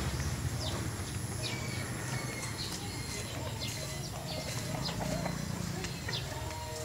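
Small birds chirping, short high calls about once a second, over a steady low rumble.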